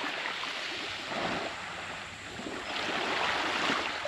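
Water washing and lapping in swells, rising and falling every second or two.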